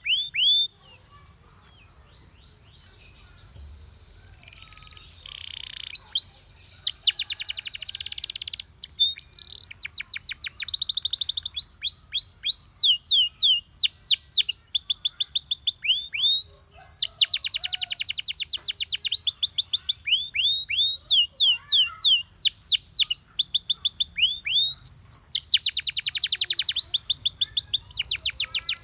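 Domestic canary singing: phrases of one note repeated rapidly, some as fast buzzy trills and some as runs of downward-sweeping whistled notes, switching from one phrase to the next. The song drops to a faint pause for about two seconds near the start, then carries on.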